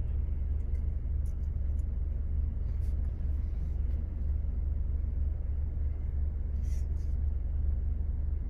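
Steady low rumble of a car idling, heard from inside its cabin, with a few faint clicks.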